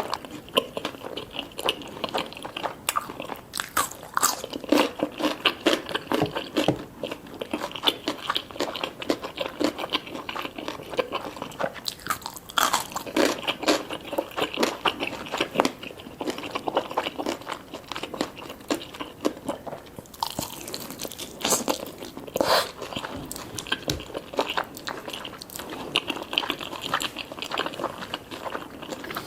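Close-miked eating sounds: repeated crunchy bites and chewing of crispy fried chicken, in an irregular run of crackles throughout.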